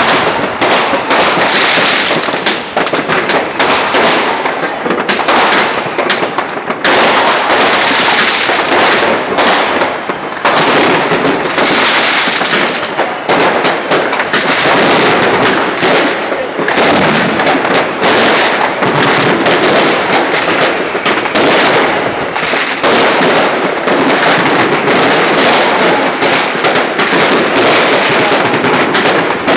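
A dense, unbroken barrage of fireworks and firecrackers going off all over a city: many bangs and crackles overlapping, with no let-up.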